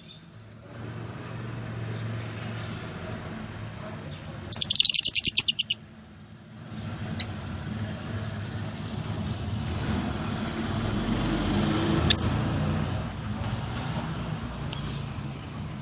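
Lovebirds calling: a loud burst of rapid, shrill chirps about four and a half seconds in, followed by three single sharp chirps spread through the rest, over a steady low background hum.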